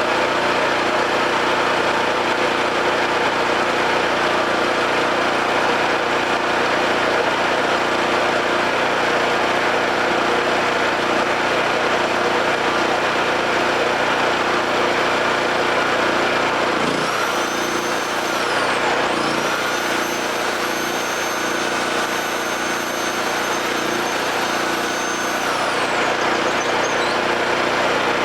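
A Homelite 5000-watt generator's single-cylinder engine running steadily. About two-thirds of the way through, a high whine comes in twice, first briefly and then for about six seconds, rising in pitch as it starts and falling away as it stops, while the engine note shifts slightly.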